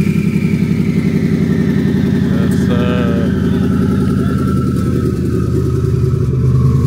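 A car engine running loudly and steadily with a fast pulsing exhaust note, and a faint whine above it slowly falling in pitch.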